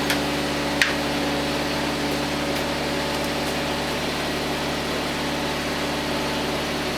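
Tractor engine idling steadily, with two short metallic clinks within the first second.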